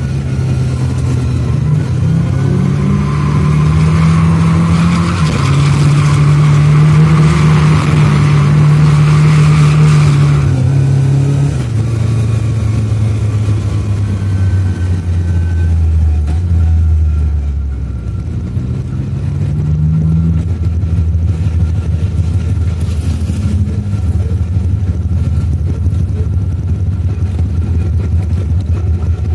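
Lada 2107's two-litre Fiat engine held at high revs for about the first ten seconds, then dropping to lower revs, with a brief dip near the middle, and running along steadily at low revs to the end.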